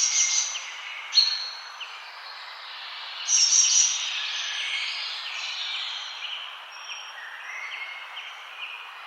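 Several forest birds singing and chirping at once, short repeated notes and high trills overlapping, over a steady background hiss. The song is loudest right at the start and again about three seconds in.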